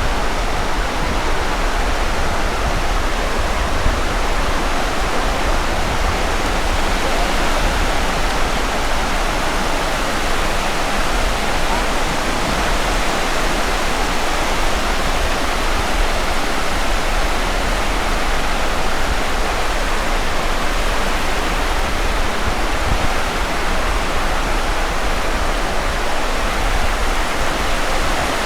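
Steady, unbroken rushing noise of a beach: surf wash mixed with wind on the microphone, with no swell-by-swell rise and fall.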